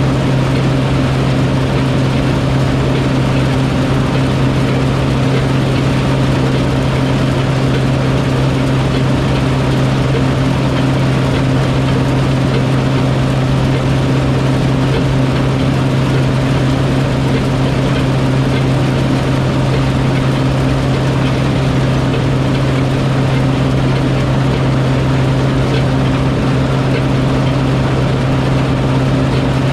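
A heavy farm-machine engine running steadily at constant speed: an unbroken low drone with a strong hum.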